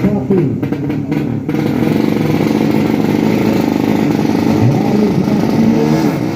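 Drag-racing motorcycle engine revving hard, its pitch rising and falling, taking over about a second and a half in.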